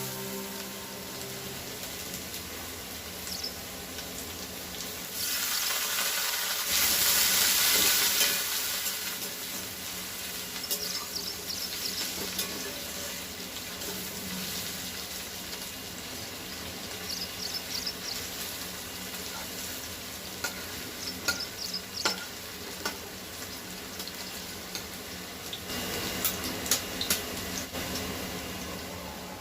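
Food frying and sizzling in a pan while it is stirred. The sizzle grows much louder for a few seconds about six seconds in, and a cluster of sharp utensil clicks against the pan comes near the end.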